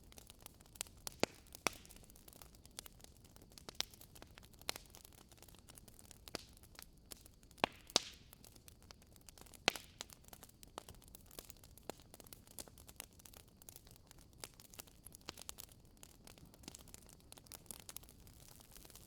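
Wood fire crackling in a fireplace: irregular sharp pops and snaps over a faint steady hiss. The loudest snaps come about a second in, around eight seconds in and near ten seconds.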